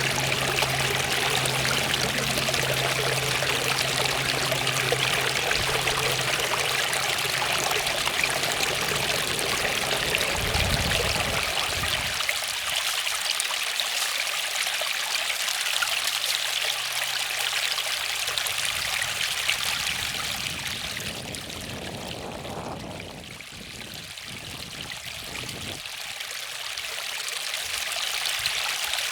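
Waterfall: water falling and splashing in a steady rushing hiss, easing a little about two-thirds through before coming back up.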